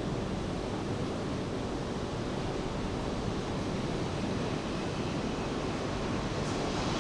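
Steady wash of rain mixed with ocean surf, an even noise with no distinct events.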